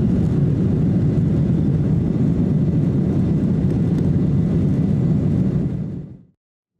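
Steady low rushing noise of a Boeing 747 jet airliner, fading out to silence about six seconds in.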